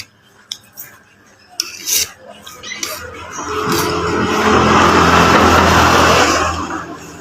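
A motor vehicle passes close by, its engine sound building up, holding for a couple of seconds and fading away. A few light clinks of cutlery come in the first seconds.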